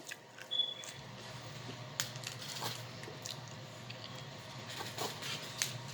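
Faint scattered crunches and clicks of people chewing crisp rolled wafer cookies with a chocolate filling.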